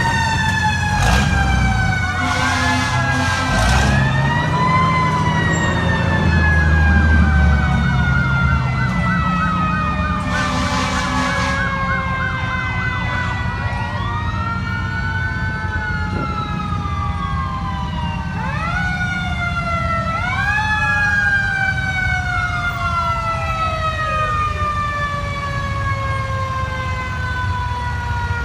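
Several fire truck sirens sounding together: one long siren tone falls slowly in pitch throughout, while other sirens wail up and down and warble rapidly for a stretch. A couple of short bursts of hiss cut in, over a low engine rumble.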